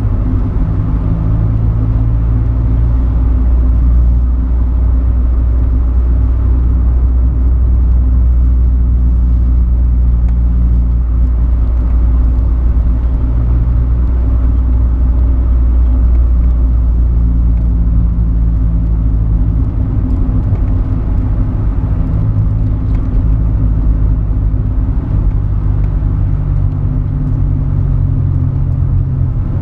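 Honda Civic EG5's D16Z6 1.6-litre SOHC VTEC four-cylinder engine running under way through a Sportex exhaust: a steady low drone whose pitch steps up and down several times as engine speed changes.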